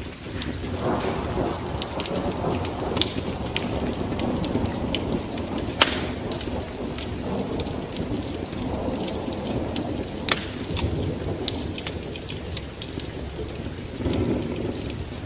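Wood fire in a fireplace crackling, with many small snaps and two louder pops about six and ten seconds in, over a steady low rushing rumble.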